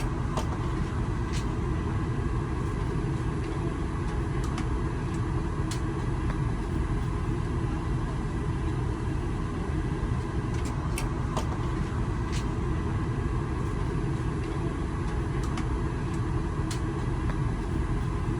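Steady cabin rumble and air-conditioning hum inside an Airbus A380 cabin, with a few faint clicks and taps scattered through it.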